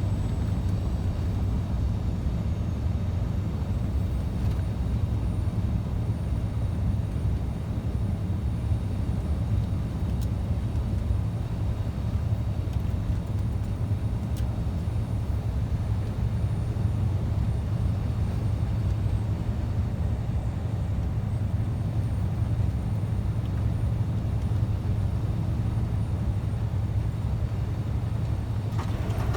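Scania truck's engine and road noise while driving, a steady low rumble that holds unchanged throughout.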